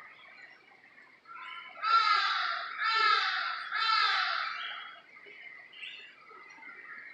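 A bird gives three loud calls about a second apart, over faint steady chirping from other birds.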